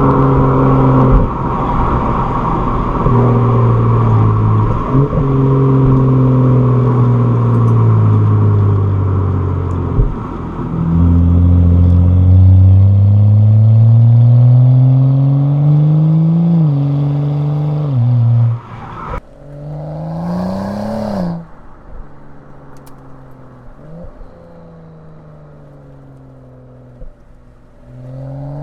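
BMW N55 3.0-litre turbocharged straight-six in a 2011 335i running through its stock exhaust under acceleration: the engine note climbs in pitch and steps down several times at gear changes. It is loudest in the first two-thirds, then runs quieter near the end, with the revs dropping and rising again.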